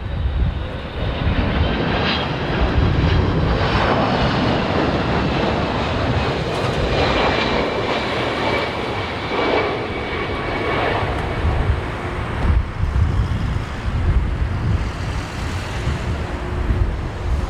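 Jet airliner passing low overhead on approach to land, its engine whine falling in pitch as it goes by. Strong gusty wind buffets the microphone.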